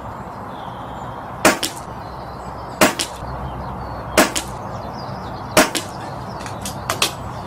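Brocock Concept PCP air rifle firing five shots in quick succession, about one and a half seconds apart, each sharp crack followed closely by a fainter click.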